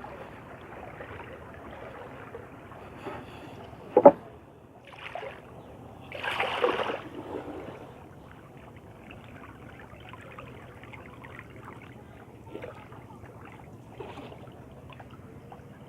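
Small boat under way on a river: a steady low hum with water noise, a sharp knock about four seconds in, and a louder noisy burst a couple of seconds later.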